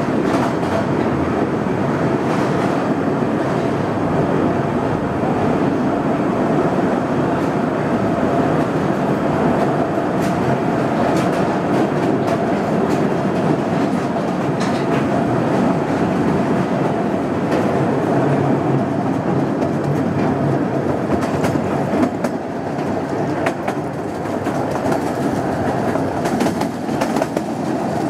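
Narrow-gauge tunnel railway running, heard from its open passenger car: a steady rumble of wheels on rail with a constant whine and scattered clicks of rail joints, echoing in the rock tunnel. The sound drops a little near the end as the train comes out into the open.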